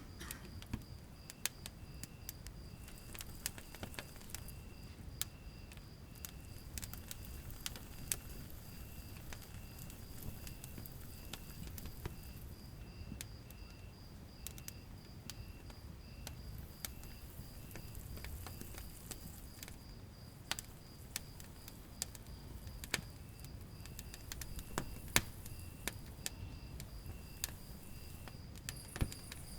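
Wood fire in a fireplace crackling, with irregular sharp pops over a soft low rumble of the flames. A steady high-pitched pulsing chirp runs behind it, dropping out for a few seconds in the middle.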